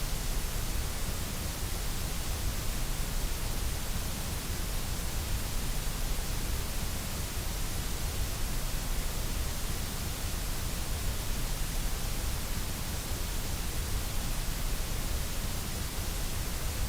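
Steady white noise: an even, unchanging hiss spread across the whole range of pitch.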